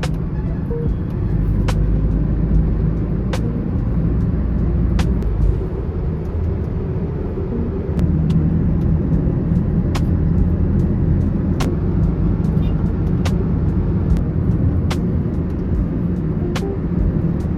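Steady low rumble of a road vehicle running, with a faint click about every second and a half.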